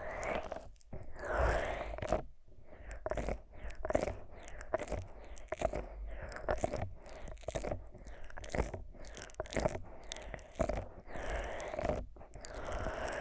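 Fingers rubbing thick Vaseline over the silicone ears of a 3Dio binaural microphone, giving sticky, close-up squelching strokes in quick, uneven succession.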